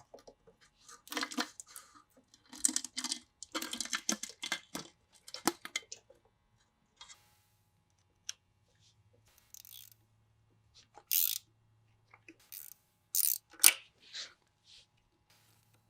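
Irregular metallic clinks, scrapes and knocks of hand tools and differential parts being handled, busy through the first six seconds, then a few separate sharp clicks and knocks, the loudest near the end.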